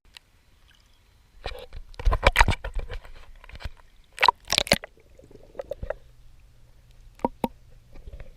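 Swimming strokes splashing and sloshing in seawater, in irregular bursts: a busy cluster about two seconds in, two sharp splashes a little past four seconds, and a couple of small knocks near the end.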